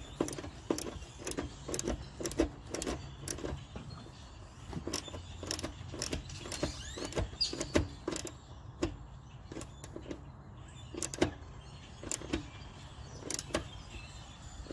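Irregular clicks and light knocks of a car seat's metal frame and rails against the floor and mounting studs as the seat is worked into place, over a low steady hum.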